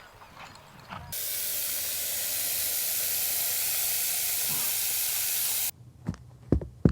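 A few sharp clops, then a loud, steady hiss that cuts in suddenly, lasts about four and a half seconds and cuts off just as suddenly; near the end a run of sharp knocks begins, about two a second.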